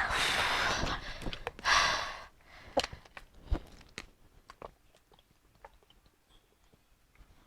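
A person eating fruit: a breathy, hissing noise for about two seconds, then scattered small clicks and crunches of chewing. These die away after about five seconds.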